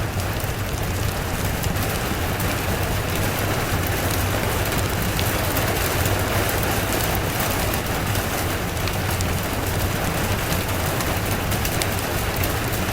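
Steady rain falling, with a constant low rumble underneath and scattered faint clicks.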